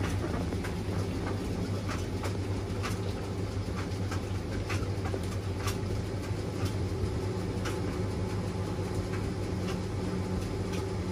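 Washing machine running with a steady low motor and drum hum, and irregular light clicks and knocks scattered throughout.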